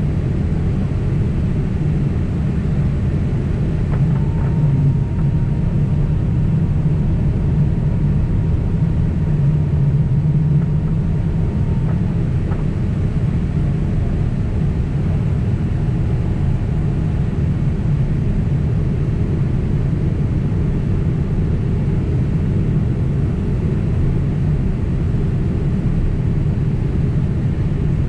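Steady cabin rumble of a Boeing 767 in flight: jet engines and airflow heard from inside the cabin. A faint steady high tone sounds for several seconds, starting about four seconds in.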